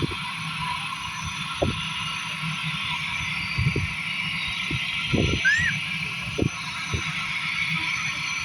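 Airbus A320neo's jet engines, Pratt & Whitney PW1100G geared turbofans, running as a steady far-off hiss-like roar, with several low thumps on the microphone and one short chirp just past the middle.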